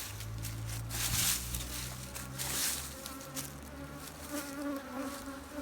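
Honeybees buzzing around an open hive, a steady droning hum, with brief rustling noises about one and two and a half seconds in.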